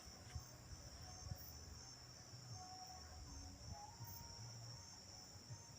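Faint, steady chorus of crickets, a continuous high trill, over a low rumble on the microphone.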